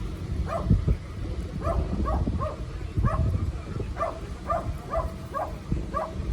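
A dog barking over and over, about three barks a second, over a steady low rumble.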